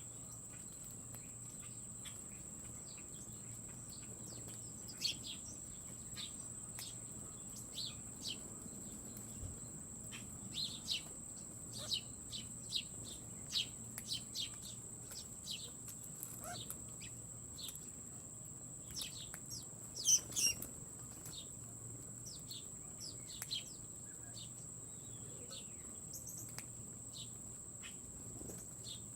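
Small birds at a feeder giving short, high chirps, scattered and irregular, with a louder cluster about two-thirds of the way in, over a steady high-pitched whine.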